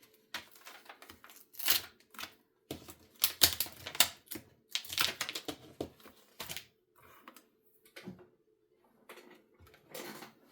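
Irregular light clicks, taps and clatter of rubber stamps, cardstock and stamping tools being handled and set down on a craft table, with the busiest bursts a few seconds in and about halfway through.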